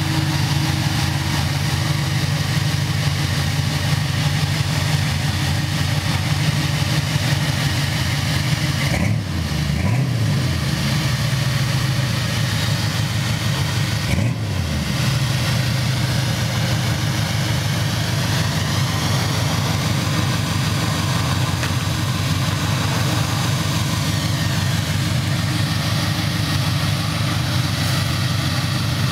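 1985 Chevrolet Monte Carlo SS's engine idling with a steady, loud rumble. The pitch rises briefly and falls back twice, about nine and fourteen seconds in.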